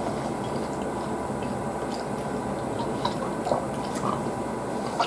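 Faint chewing and small wet mouth clicks over a steady low room hum, with a short sharp click near the end.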